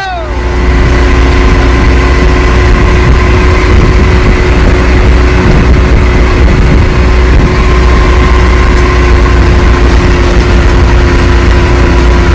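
A motor vehicle engine running loud and steady at an unchanging speed, with a heavy low rumble.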